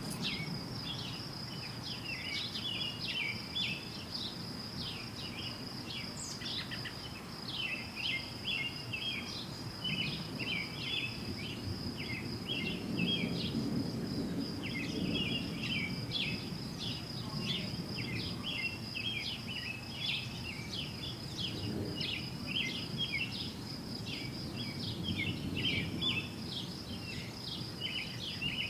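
A distant low roar of unknown origin, like constant thunder or rushing wind though there is no wind, swelling and fading. Over it, songbirds chirp continuously and a steady high insect trill runs throughout.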